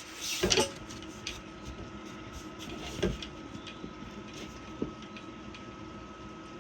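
Heavy rain falling steadily, an even hiss, with a few short knocks, the loudest about half a second in and others near three and five seconds.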